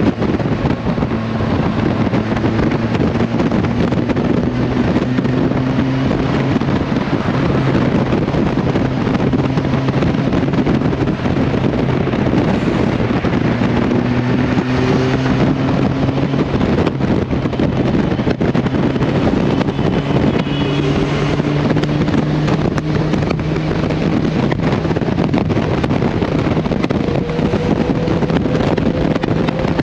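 Motorcycle on the move with heavy wind noise on the microphone. The engine note climbs slowly, falls back and climbs again several times as the bike gathers speed.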